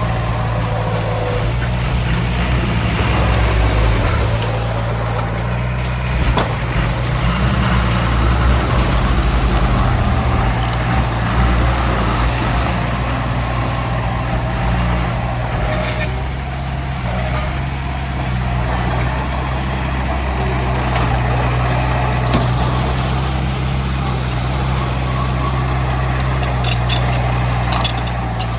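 Heavy diesel construction machinery running and working: a steady, loud engine drone with a few short clanks near the end.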